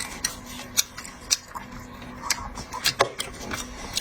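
Crab shell being cracked and crunched while eaten: irregular sharp cracks and clicks, the loudest about three seconds in, over a faint steady hum.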